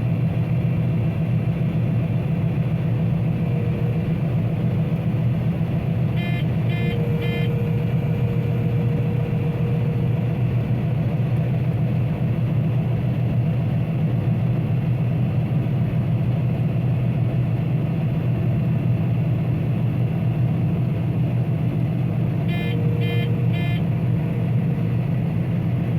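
Grain combine running steadily at working speed while unloading wheat from its hopper. A quick run of short high beeps sounds twice, about seven seconds in and near the end.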